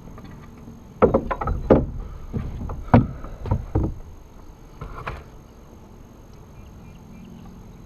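Knocks and bumps against a fishing kayak's hull, a quick irregular run of them from about one to four seconds in and one more near five seconds, then only a quiet background.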